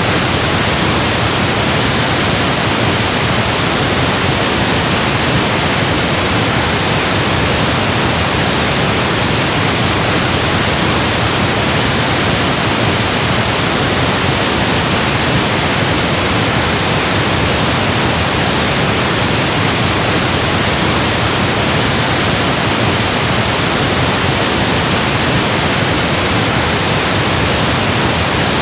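Steady, loud pink noise: an even, unchanging electronic hiss spread across all frequencies.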